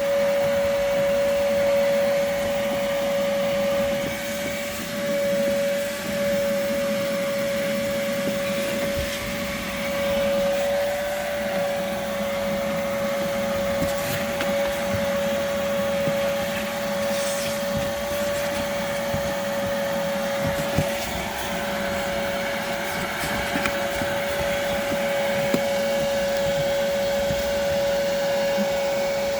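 Vacuum cleaner running steadily as its nozzle cleans a car's interior, with a constant whine over the rush of air.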